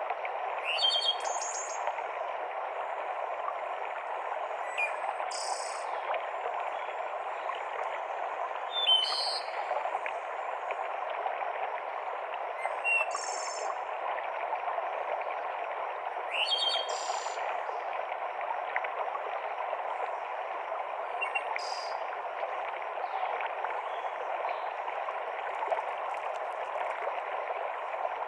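Mountain stream running steadily over rocks, with a bird giving short high calls about every four seconds.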